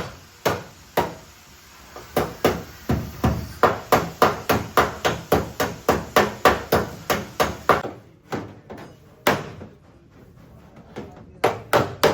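Hammer blows on car body sheet metal during dent repair: a quick steady run of sharp strikes, about three a second, then a pause with a single blow, then another quick run near the end.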